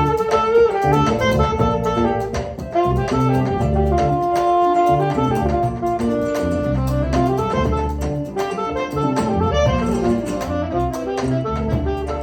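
A live band playing an instrumental passage: a melodic lead line over chords and a pulsing bass.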